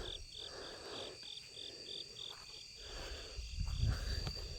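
Crickets chirping in an even rhythm, about three high chirps a second, over a steady high insect whine, with soft low rumbles near the end.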